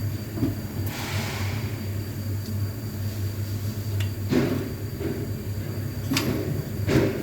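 Scania truck's engine idling with a steady low hum, with a short hiss about a second in and several sharp clicks and knocks near the middle and end, like a door or its window mechanism being handled.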